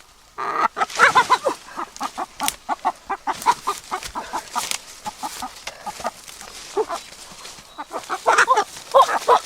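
Chickens clucking in a rapid run of short calls. The calls start just under half a second in, thin out in the middle and crowd together again near the end.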